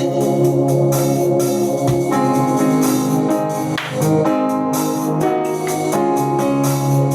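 Instrumental music led by an electronic organ or keyboard playing sustained chords that change every second or two, with a steady beat.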